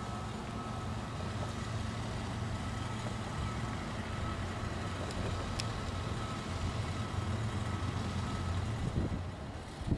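Diesel freight locomotive engines running, a steady low drone with a faint thin whine above it that fades out near the end.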